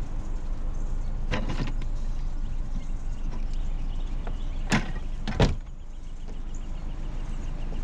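Knocks and clunks of plastic storage totes being loaded into a car, ending in a loud door or trunk-lid slam about five and a half seconds in, over the steady low rumble of the running car.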